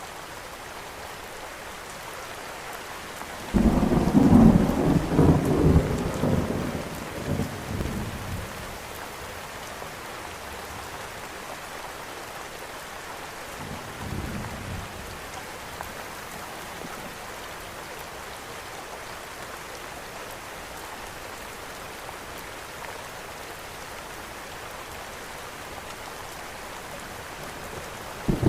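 Steady rain with thunder. About three and a half seconds in, a loud clap breaks into a low rumble that rolls on and fades over four or five seconds; a fainter rumble comes around the middle, and another loud clap starts at the very end.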